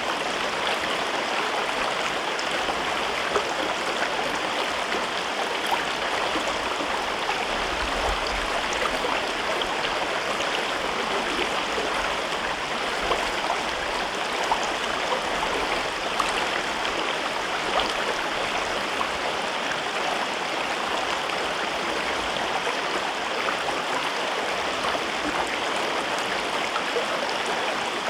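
A river flowing steadily over rocks in a gorge: a constant rushing and babbling of water with small splashes.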